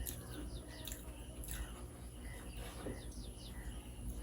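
Faint, rapid chirping of small birds, many short falling chirps repeating throughout.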